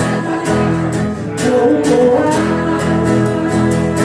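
Acoustic guitar strummed in a steady rhythm, with a singer's voice holding a note over it.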